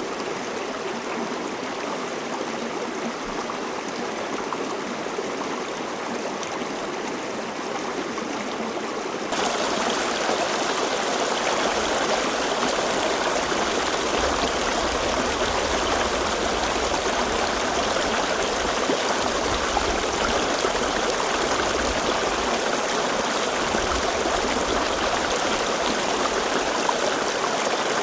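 Stream water flowing steadily over rocks. About nine seconds in it turns abruptly louder and brighter, with more low rumble, as a heavier flow takes over.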